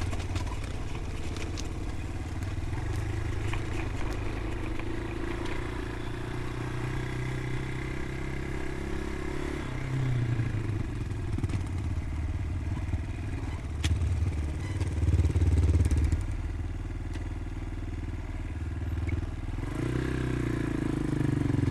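Motorcycle engine running while riding, its pitch rising and falling with the throttle: it drops about ten seconds in, runs louder for a while, and picks up again near the end.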